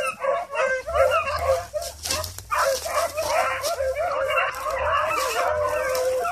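A pack of hounds baying and yipping together while running, several dogs' voices overlapping almost continuously, with a brief lull a little over two seconds in.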